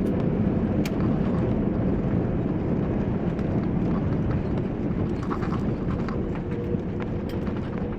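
Airliner cabin noise: a steady low rush with a faint steady hum running through it, and a few light clicks.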